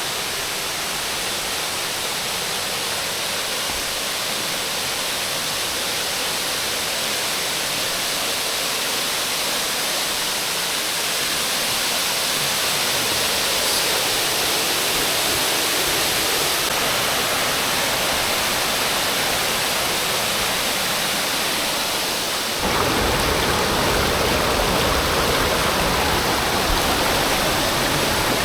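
Waterfall on Kitchen Creek rushing steadily, running high after a night of rain. About two-thirds of the way through, it switches abruptly to a louder, deeper rush.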